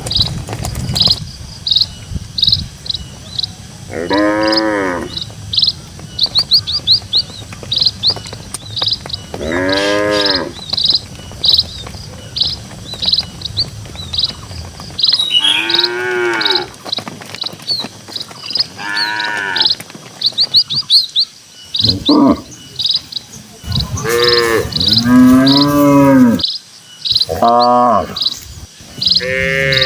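Village cattle mooing repeatedly, about eight long calls, each rising and falling in pitch and coming closer together in the second half. Under them runs a steady high chirping that repeats a few times a second, and a low rumble stops about halfway through.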